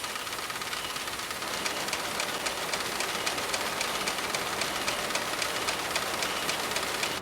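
Industrial weaving loom running at speed: a steady mechanical whirr with rapid, even clacking.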